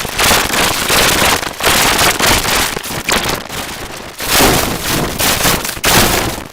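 Loud, harsh crackling distortion noise, an effect-processed version of the voice clip so heavily distorted that no words come through, surging in uneven waves of about a second each and cutting off abruptly at the end.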